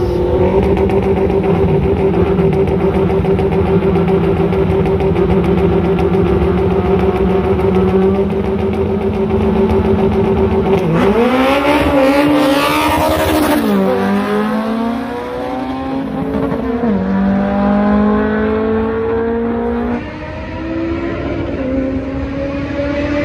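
K20-swapped Honda Civic hatchbacks' four-cylinder engines held at a steady rev while staged, then launching about eleven seconds in. They rev up through the gears, the pitch climbing and dropping back at each shift.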